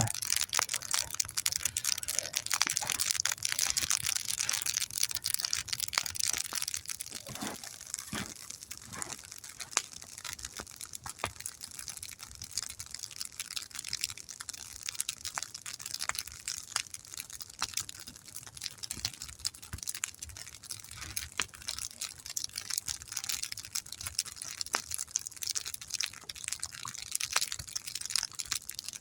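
A wood campfire crackling, with many small irregular snaps and pops over a hiss. It is louder for the first several seconds, then settles to steadier crackling.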